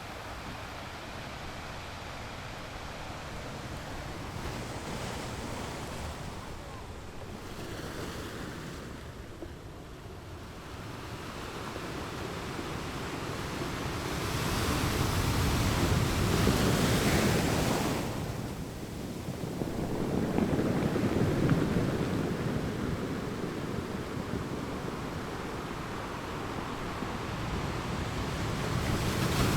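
Ocean waves breaking on rocks, a steady rush of surf that swells into two loud surges past the middle and builds again near the end.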